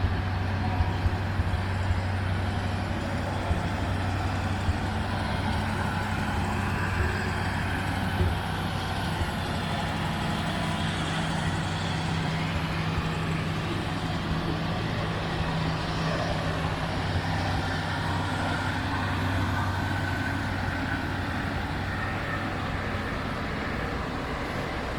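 1955 Ford Thunderbird's Y-block V8 running steadily, a constant low engine hum with no revving.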